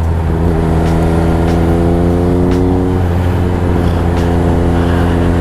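Triumph Speed Triple RS's three-cylinder engine running at steady revs through an SC Project titanium exhaust while riding; the engine note drops slightly about three seconds in.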